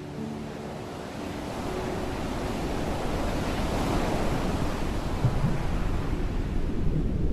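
A wash of ocean-surf-like noise that swells to a peak about four seconds in and eases off, with a low rumble building underneath toward the end.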